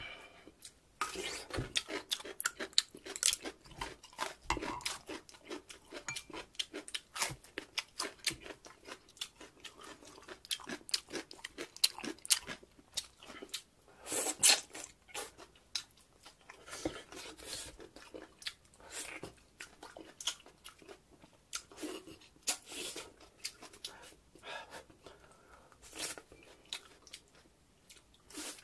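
Close-miked chewing and lip smacking as pork backbone meat is eaten off the bone: a dense, irregular run of short wet clicks and crunches.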